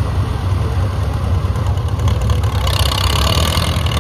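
Antique tractor engine running steadily under load as it pulls the weighted sled. A hiss comes in over the engine about two and a half seconds in.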